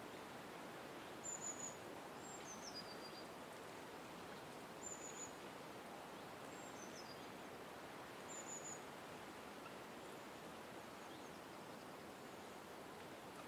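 Small songbird giving thin, very high call notes: a short high note three times, roughly every three and a half seconds, with a falling note between the first two pairs, over a steady background hiss.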